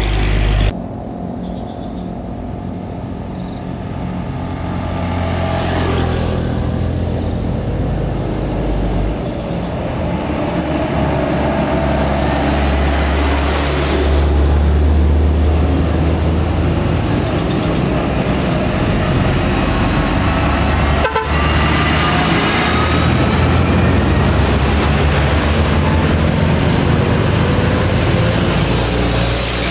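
Heavy diesel truck engines droning as loaded trucks pass on the road, growing louder partway through, with a truck horn sounding.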